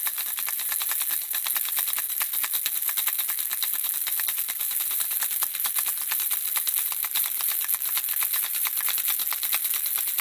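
Handheld baby rattle shaken steadily, a rapid, even stream of small tinkling clicks, several a second.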